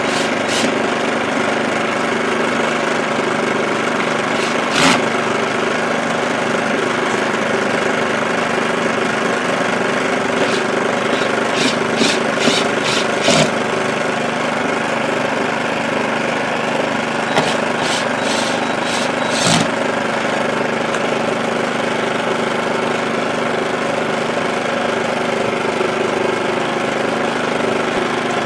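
WEN 56235i 2350-watt inverter generator's small four-stroke engine running steadily, its carburetor fitted with a high-altitude conversion kit. Scattered sharp clicks come in two short clusters, around the middle and a little after.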